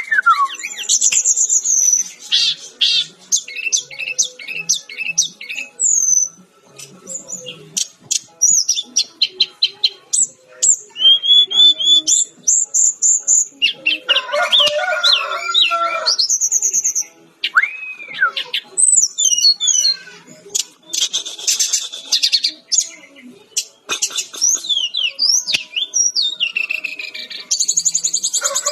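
Sikatan-rimba dada-coklat (SRDC, a jungle flycatcher) singing continuously: a varied run of fast high trills, whistled glides and buzzy phrases with short breaks between them.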